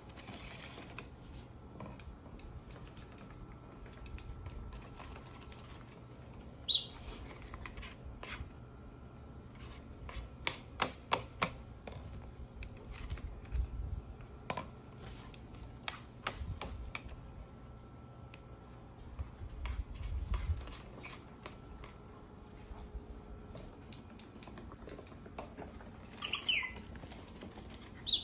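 A bird tapping and pecking: scattered sharp taps, some in quick clusters. A brief high falling chirp comes about seven seconds in, and a couple more come near the end.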